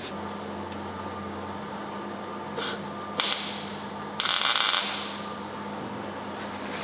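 Short bursts of welding crackle as brackets are tack-welded on, the longest about four seconds in, over a steady low shop hum.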